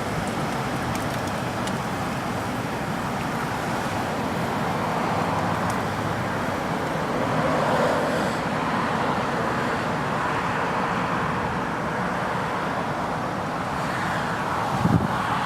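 Road traffic noise: cars passing by, swelling and fading, loudest about eight seconds in.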